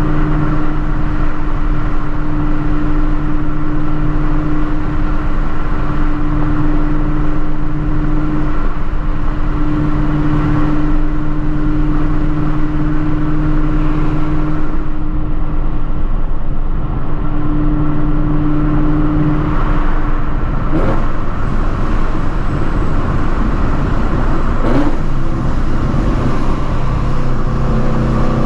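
ProCharger-supercharged Shelby GT350's 5.2-litre flat-plane-crank V8 cruising at a steady engine speed, a constant drone. About twenty seconds in the steady note breaks up as the engine speed changes.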